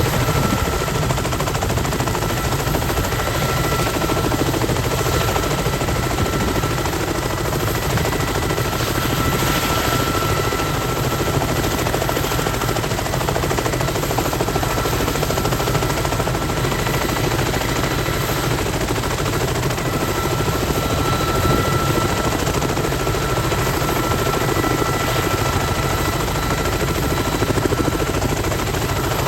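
Kamov Ka-32 helicopter running steadily, its coaxial rotors giving a rapid low chop under a steady whine from its twin turboshaft engines.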